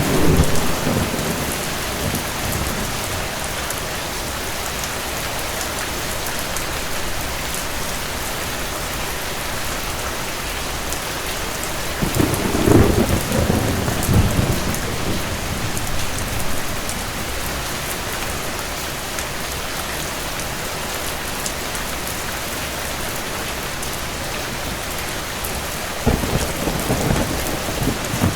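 Steady rain with low rolling thunder. One rumble is fading at the start, another swells about twelve seconds in and lasts a few seconds, and a third begins near the end.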